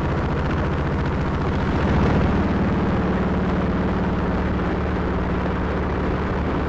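Motorcycle engine running at road speed, with rushing noise from the ride. About two seconds in it grows a little louder and settles into a steady, stronger hum.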